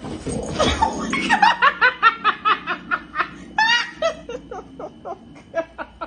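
A person laughing hard in a rapid run of short bursts, which slow down and fade toward the end.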